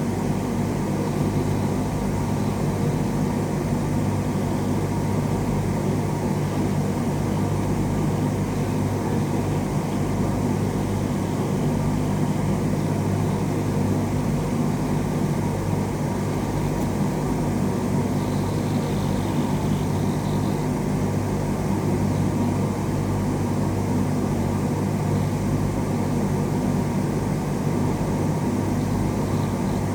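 A steady low mechanical drone with a constant hum, unchanging in level.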